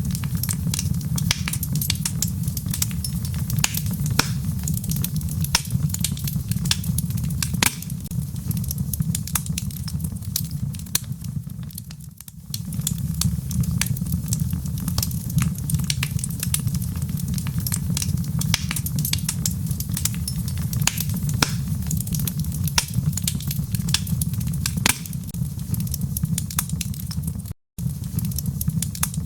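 Wood fire crackling, with frequent sharp pops over a steady low rumble and a soft patter of rain. The sound drops out completely for a split second near the end.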